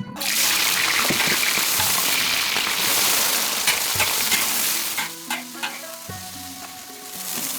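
Food dropped into hot oil, setting off a sudden loud sizzle that starts at once and eases after about five seconds, with frying continuing under the clicks and scrapes of a utensil stirring it.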